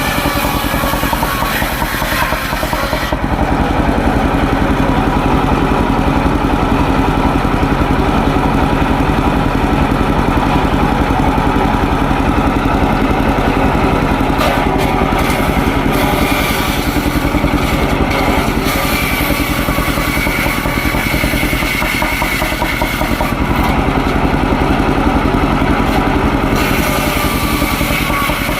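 Small engine running steadily, driving a homemade circular saw as it rips waru wood into battens. The blade's cutting noise rises over the engine three times: in the first few seconds, for about four seconds midway, and again near the end.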